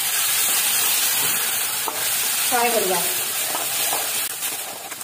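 Wet masala paste sizzling in hot oil in a kadai as a spatula stirs and scrapes through it, with a few sharp taps of the spatula on the pan. The sizzle eases near the end.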